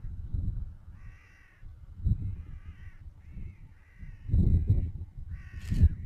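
A bird calling about five times, each call about half a second long, over a low, gusting rumble that swells loudest in the second half.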